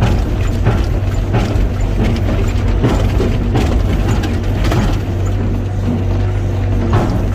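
Heavy machine engine running steadily, with repeated sharp metallic clicks and knocks about every half second to a second.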